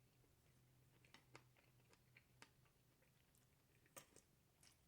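Very faint chewing: a person eating with the mouth close to the microphone, soft scattered mouth clicks, the loudest about four seconds in.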